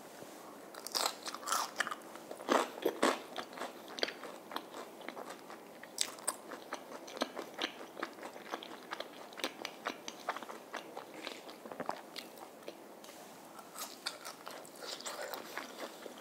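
Crunching and chewing of crispy fried batter, recorded close up: crisp crackles loudest in the first few seconds after the bite, then repeated irregular crunches as it is chewed.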